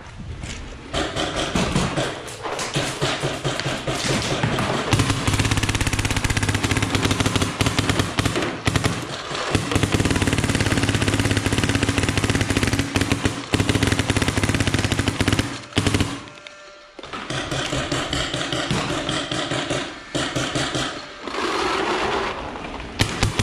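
A loud engine running hard, with a rapid stream of exhaust pulses. It drops away briefly about 16 seconds in, then picks up again.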